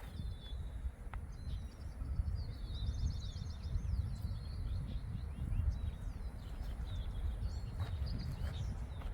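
Small songbirds chirping and singing, with a fast trill about three seconds in, over a steady low rumble.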